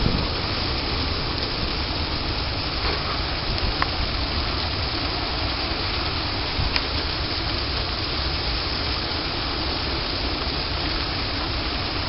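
Steady rushing noise of a winter storm: wind and falling ice rain, with a few faint sharp ticks.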